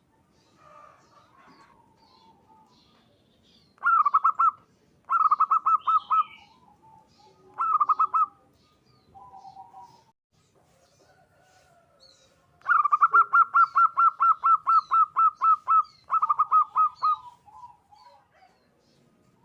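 Zebra dove (perkutut) cooing: several bursts of rapid staccato coo notes, the longest a run of about six notes a second lasting some three seconds, with softer, lower coos in between. Faint chirps of other birds sound in the background.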